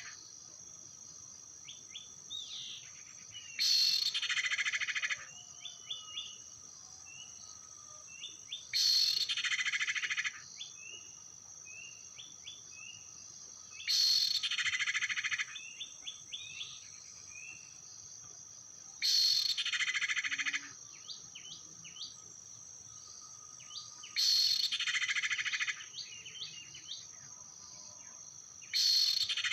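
A bird-lure call for common iora (cipow) repeating about every five seconds, each burst lasting about a second and a half. Short chirps sound between the bursts over a steady high insect drone.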